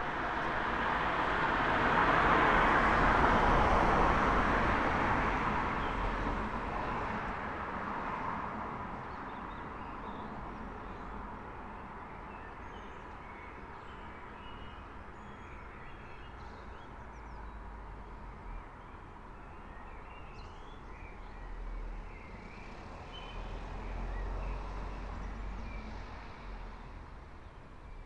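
A car passes along the street: its tyre and engine noise swells to a peak a few seconds in, then fades away. Afterwards birds chirp faintly over a low, distant traffic rumble that rises briefly again near the end.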